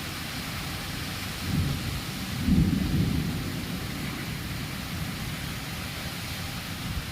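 Thunderstorm: steady rain with low rumbles of thunder, a short one about one and a half seconds in and a louder, longer one at about two and a half seconds that dies away over the next second or so.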